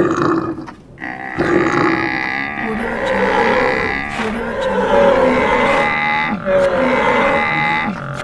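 A layered sound-effect chorus of large animal calls, including cattle-like lowing and bellowing, several calls overlapping. It opens with a short growling call, and the dense chorus sets in about a second later.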